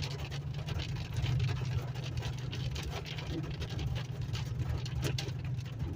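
Steady low road and engine rumble heard from inside a moving vehicle's cabin, with scattered faint ticks and a sharper tap about five seconds in.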